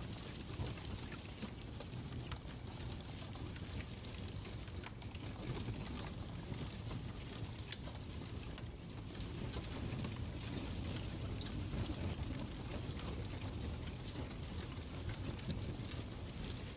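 Fireplace crackling steadily over a low rumble, with many small scattered clicks and pops.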